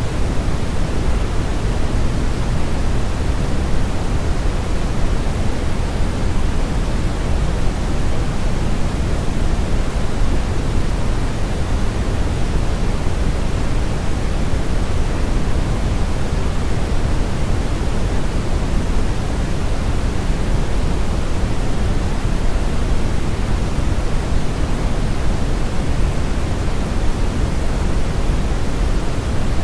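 Steady brown noise: an even, unchanging rushing hiss weighted heavily toward the low end, its highs rolled off.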